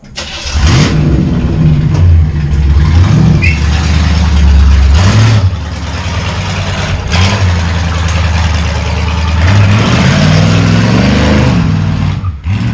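A vehicle engine running loudly through its exhaust, with a steady low note and a few revs that rise and fall.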